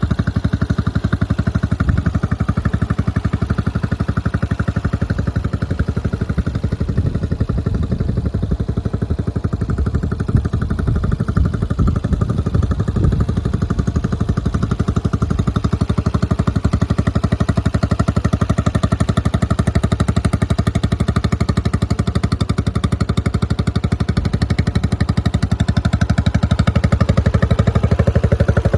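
2012 CSC motorcycle's 150cc engine running steadily, a little louder over the last few seconds.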